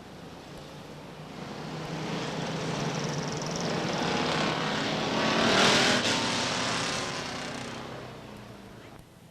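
Stock car engines passing under caution. The sound builds over several seconds to a peak a little past halfway, then fades away.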